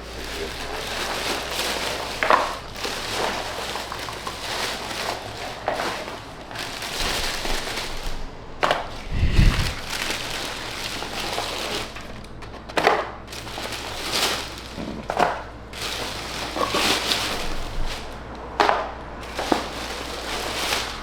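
Crinkling and knocking handling noises, a run of short clicks and knocks, with one dull low thump about nine seconds in.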